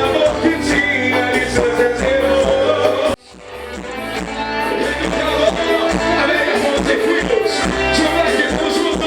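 Live band music with a steady beat and a singing voice. About three seconds in it cuts off abruptly, then comes back and builds up again.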